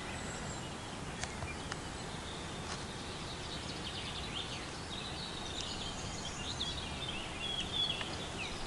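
Open-air ambience: a low, steady background rush, with faint, short bird chirps from about four seconds in.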